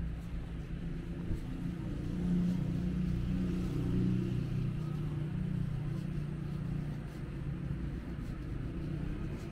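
Street traffic: a motor vehicle's engine running close by, swelling louder from about two seconds in and easing off again after a few seconds.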